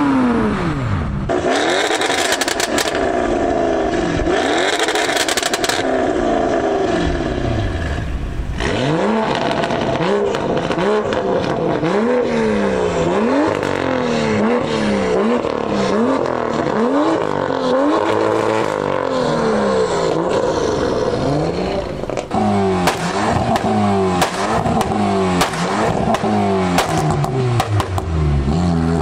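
Performance car engines revved hard, one car after another. An Audi RS7's twin-turbo V8 is blipped over and over, each rev rising and falling about once a second. In the last several seconds a Volkswagen Golf GTI's turbocharged four-cylinder revs with many sharp exhaust pops.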